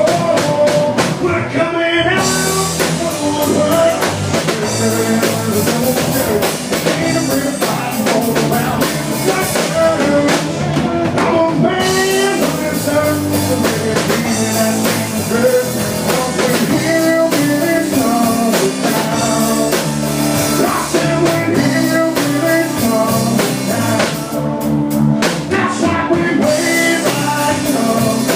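Rock band music with a drum kit and guitars playing steadily.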